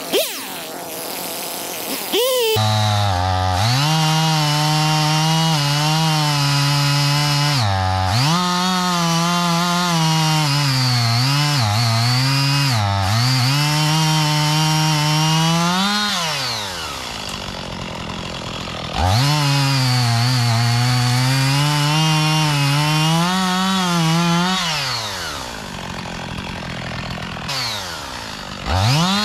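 Husqvarna 55 Rancher two-stroke chainsaw running at full throttle while cutting into a pine trunk, its pitch dipping and wavering as the chain bogs in the wood. It drops back to idle about sixteen seconds in and again near twenty-five seconds, revving up again each time.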